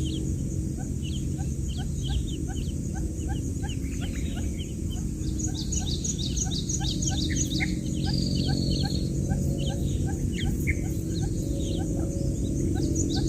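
Newly hatched quail chicks peeping: many short, high chirps in quick succession, over a steady low hum.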